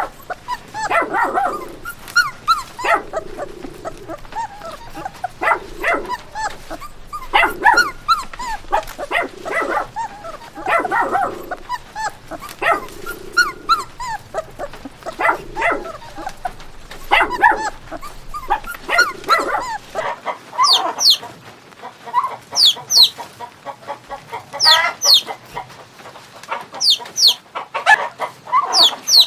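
A dog barking and yipping in short, repeated calls about every second or two. About two-thirds of the way through, the barking gives way to high, quick, falling chirps.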